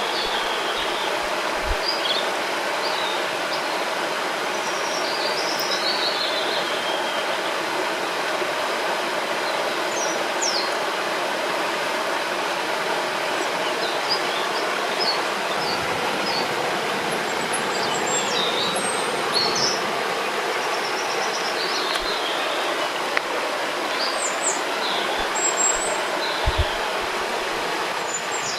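River water rushing steadily, with birds singing over it in short, high chirps and trills scattered throughout.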